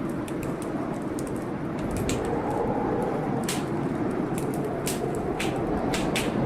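Wood fire crackling in a fireplace, with about a dozen sharp, irregular pops and snaps over a steady hiss of storm rain.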